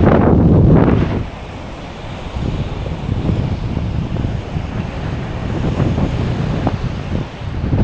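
Wind buffeting the microphone over the wash of surf on a beach, louder for about the first second and then steady.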